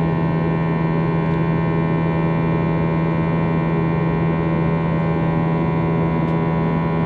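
Airbus A321's IAE V2500 turbofan engines running at steady power, heard from inside the passenger cabin: an even drone with a strong low hum and many steady overtones above it, over a bed of air noise.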